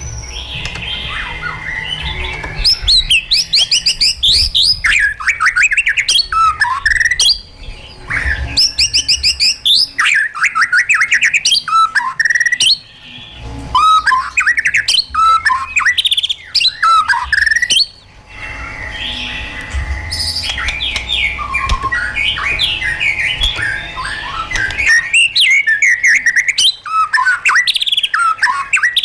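White-rumped shama singing: fast, varied phrases of rapid rising and falling whistled notes, broken by short pauses every few seconds.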